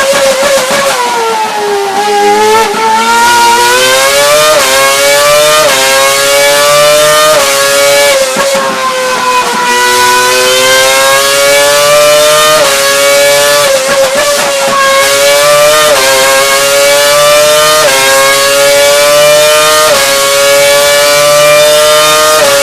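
Renault RS27 V8 Formula 1 engine at high revs, its high whine dipping, then climbing through a run of quick gear shifts, each marked by a small drop in pitch. It falls away once about ten seconds in, then climbs through the shifts again.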